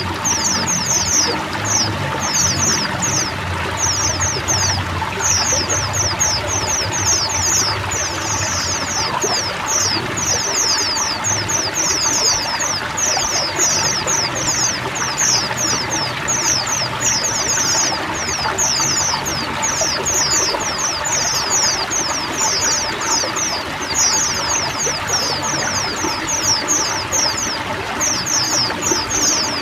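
A flock of white-eyes (pleci) chattering together: a dense, unbroken stream of quick, high, down-slurred chirps over the steady splash of running water.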